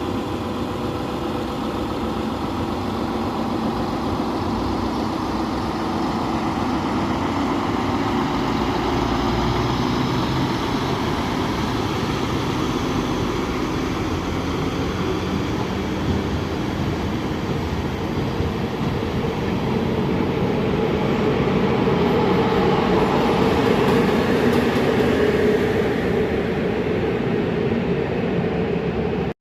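Train running through a railway station: a steady rumble with a few held tones, swelling a little louder past the middle.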